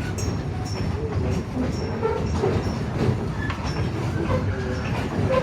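Narrow-gauge railroad passenger car rolling behind a steam locomotive: a steady rumble of wheels on rail with scattered clicks and short squeaks.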